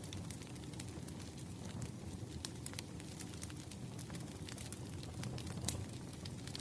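Campfire burning with a steady low rumble of flames and irregular sharp crackles and pops from the wood.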